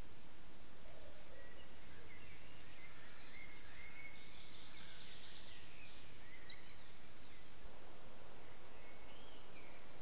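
Small birds singing, with short chirps and whistled phrases coming and going, over a steady background hiss.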